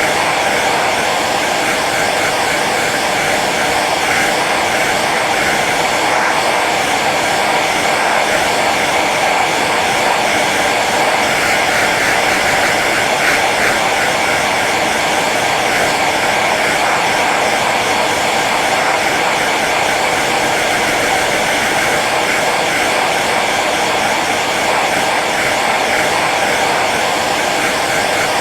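Hair dryer running steadily on its low setting, an even blowing whir of fan and airflow.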